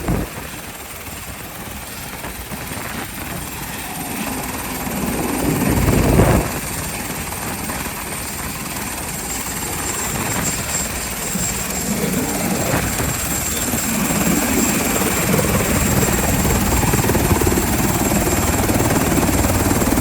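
Helicopter running, a steady rotor and engine noise that slowly grows louder, with a brief louder swell about six seconds in that cuts off sharply.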